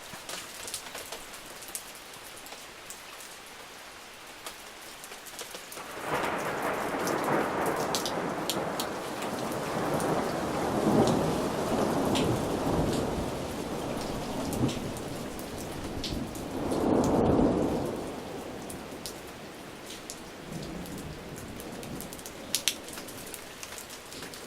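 Steady rain with individual drops ticking sharply. About six seconds in, thunder breaks suddenly and rolls for roughly twelve seconds, swelling twice before it fades back into the rain.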